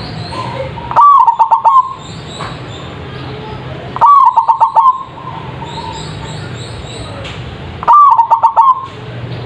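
Zebra dove (perkutut) cooing: three loud calls about three seconds apart, each a short falling note followed by a quick run of staccato coos. Faint chirping of other small birds and a low hum are heard between the calls.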